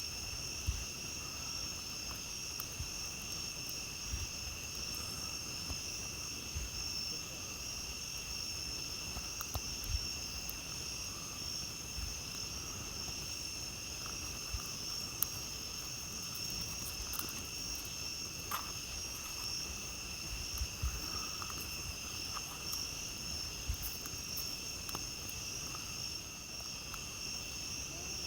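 A steady chorus of crickets and other night insects trilling at a high, unbroken pitch, with scattered sharp pops and crackles from a campfire.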